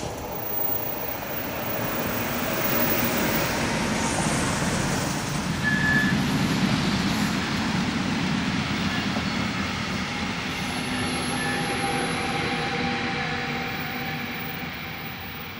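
Rolling-highway freight train of trucks on low-floor wagons, hauled by ÖBB Vectron electric locomotives, passing close by with a steady rumble and clatter of wheels on the rails. The sound is loudest about six seconds in and then eases off, with a brief high wheel squeal near the peak.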